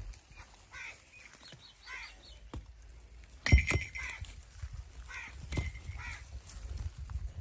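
Birds calling in short, repeated harsh notes, with a single sudden loud thump about halfway through.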